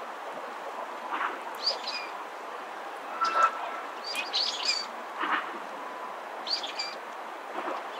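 Small birds chirping outdoors: a short high-pitched phrase repeats about every two seconds, with lower, shorter calls in between, over steady background noise.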